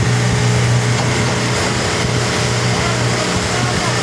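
Vehicle engine running steadily, a continuous low drone with a constant higher tone above it.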